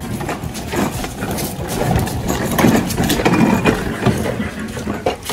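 Hard plastic wheels of a ride-on toy car rolling along, a steady rumbling rattle with many small knocks.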